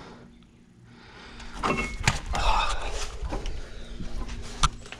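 Clatter of metal tools and parts being handled, rising after a quiet start, with several sharp clicks and knocks.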